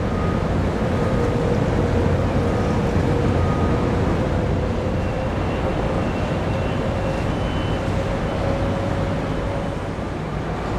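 Harbour ambience: a steady low engine hum from ships, with faint steady tones above it and wind noise on the microphone.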